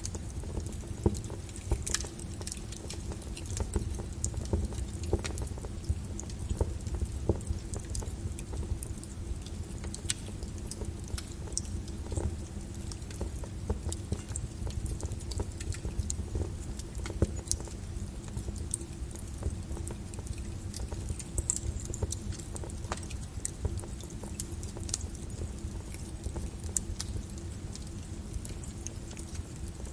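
Wood fire crackling with frequent small irregular pops, layered over steady rain and a low rumble.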